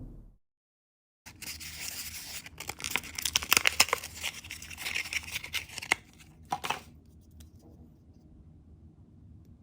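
A blind bag's packaging being torn open and crinkled by hand: a dense run of crackling and tearing that starts about a second in and is loudest around the middle. It ends with a few sharp crinkles about two-thirds of the way through, leaving only faint room hum.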